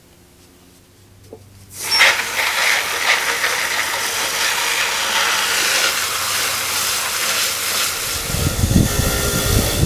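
A loud, steady hiss starts suddenly about two seconds in and holds, with a low rumble joining near the end.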